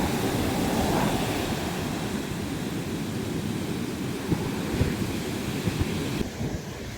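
Heavy surf breaking and washing up a sand beach, with wind buffeting the microphone. The hiss of the wash fades near the end.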